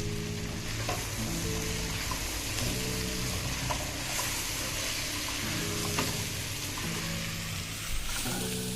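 Butternut squash, apple and onions sizzling in a covered pot, a steady hiss, with background music playing over it.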